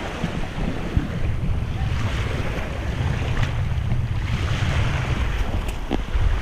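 Wind buffeting the microphone over the wash of small waves breaking on the beach, with a brief knock about a second in and another near the end.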